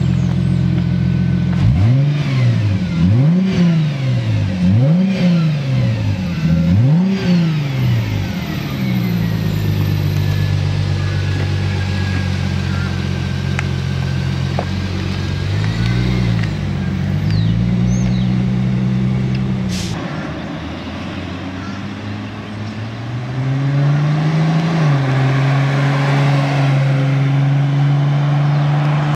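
2001 Chrysler Prowler's 3.5-litre aluminium DOHC V6 through its stock dual exhaust, revved several times in quick succession from idle and then running steadily as the car pulls away and accelerates up the road.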